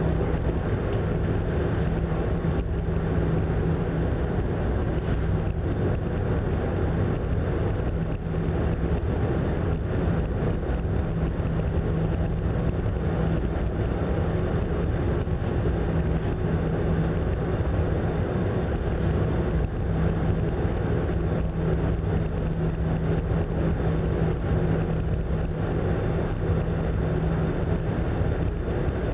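Steady drone of the Ogasawara Maru's engines with a constant low hum, under an even rushing noise of wind and heavy sea.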